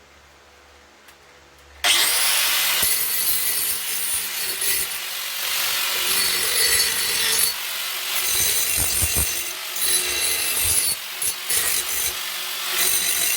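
Power grinder dressing a cut piece of steel exhaust pipe. It starts suddenly about two seconds in and runs on steadily, its level rising and dipping as the work is moved against it.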